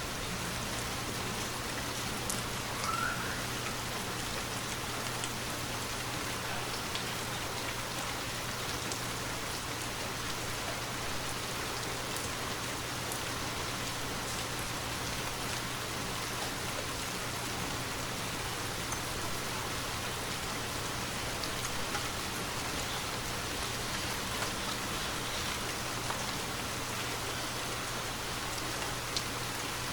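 Steady rainfall, with single drops ticking louder now and then.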